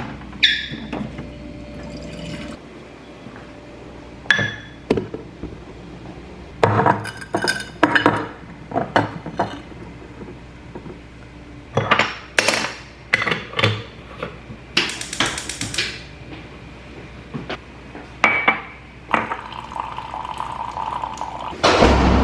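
Irregular clinks and clatters of glassware and dishes, with a steady tone for a couple of seconds near the end.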